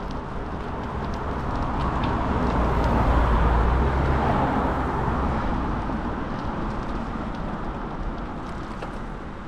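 A motor vehicle passing on the road, its tyre and engine noise swelling to a peak about three seconds in and then fading away.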